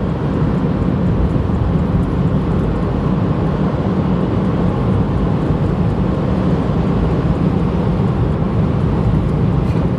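Steady road and engine noise of a car cruising at highway speed, heard from inside the cabin as a low, even rumble.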